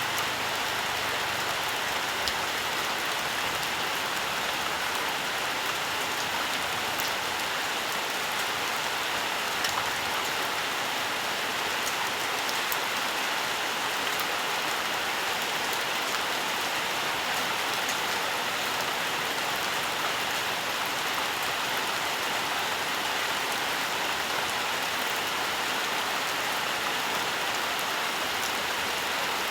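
Steady rain falling on leaves and ground, an even hiss with scattered individual drop taps.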